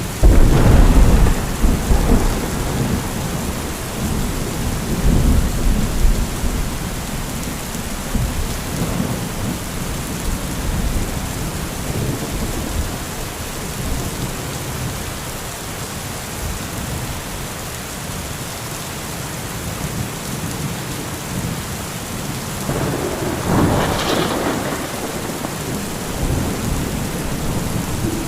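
Heavy rain falling steadily, with a loud thunderclap right at the start that rolls on as a low rumble for about six seconds, and a second, weaker crack of thunder with a brief rumble about 23 seconds in.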